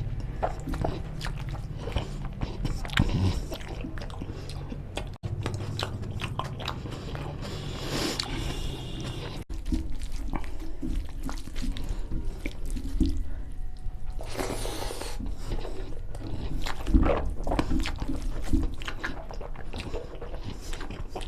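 Close-miked eating: chewing and biting mutton curry with rice, with irregular wet mouth clicks and smacks and a few longer noisy bursts. The audio drops out briefly twice.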